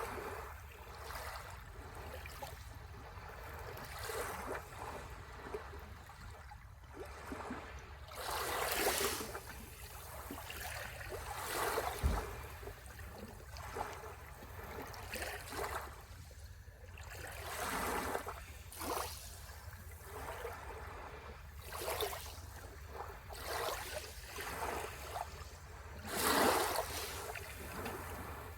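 Sea waves washing onto the shore, each surge of noise swelling and falling away every few seconds over a steady low rumble. There is one brief thump near the middle.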